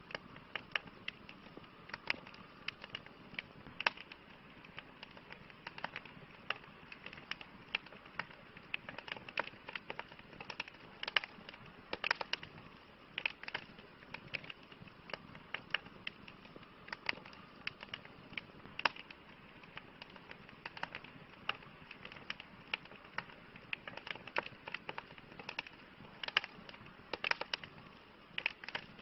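Campfire burning with a steady low hiss and frequent irregular crackles and pops from the burning wood.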